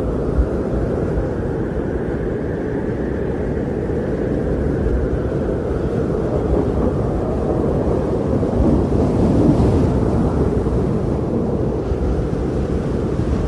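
Strong blizzard wind: a steady, deep roar that swells and eases slowly over several seconds.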